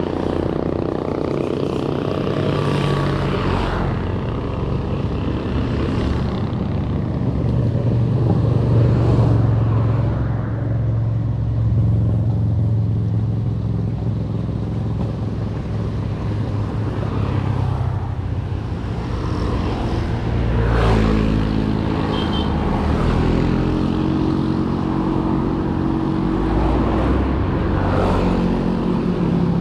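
Motor vehicle engines running, with the engine pitch shifting, typical of road traffic. A different, higher engine note comes in during the last several seconds.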